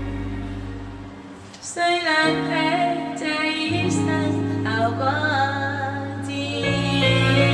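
Slow, tender song: held instrumental chords fade, then a female voice sings a melody over sustained bass notes from about two seconds in.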